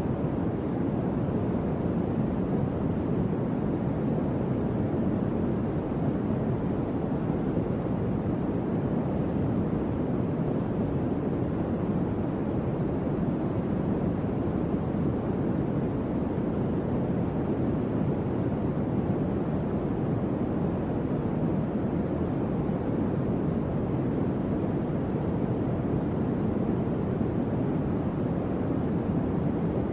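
Electric fan running steadily: an even, deep rush of moving air that does not change, with no hum or rattle.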